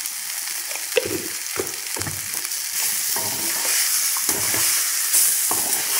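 Potato and cauliflower pieces sizzling in hot oil in a stainless steel pan while a perforated steel spatula stirs them, scraping and knocking against the pan over and over from about a second in. The sizzling gets louder about three seconds in as the pieces are tossed.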